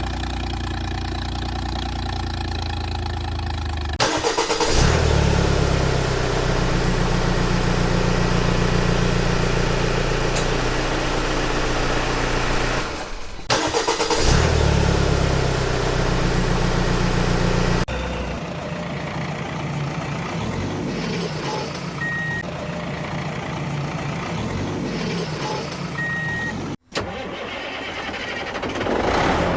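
Vehicle engine sounds in several segments that cut in and out abruptly: an engine starting and running steadily, then a quieter stretch with two short high beeps.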